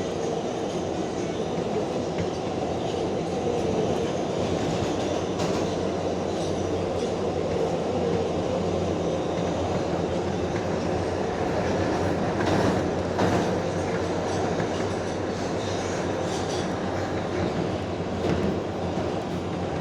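Inside an R142A subway car running at speed through the tunnel: a steady rumble with a low hum, and occasional clacks of the wheels over the rail joints, a few louder ones about two-thirds of the way in and near the end.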